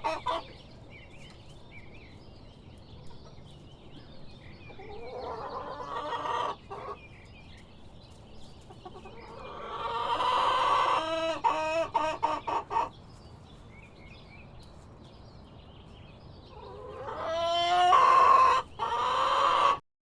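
Rooster crowing three times, each crow a few seconds long and the last the loudest, with faint short chicken calls in between.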